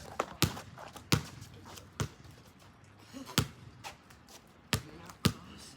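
A basketball being bounced on a wet court during play: about six sharp bounces at uneven intervals.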